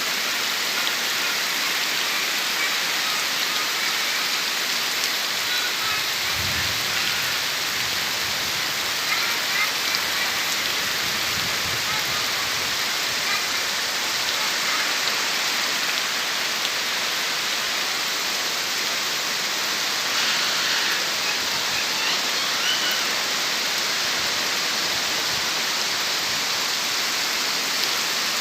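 Heavy rain pouring steadily, an even hiss without pause. Brief low rumbles come about six and eleven seconds in.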